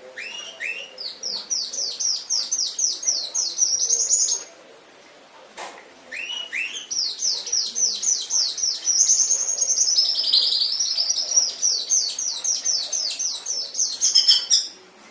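Domestic canary singing two long song phrases with a short pause between them. Each phrase opens with a couple of lower notes and runs into fast, high repeated trills; the second is longer and warbles in the middle.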